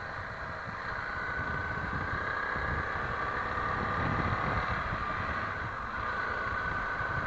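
Honda CRF300L Rally's single-cylinder engine running steadily as the motorcycle is ridden at low speed, with road noise.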